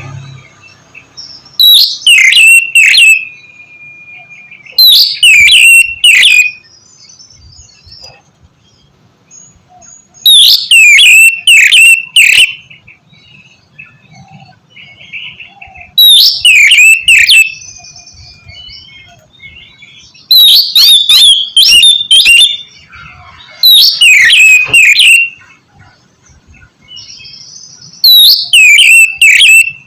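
Oriental magpie-robin (kacer) calling in loud bursts of sharp, sweeping whistled notes, about seven bursts a few seconds apart, with softer scattered twittering between them.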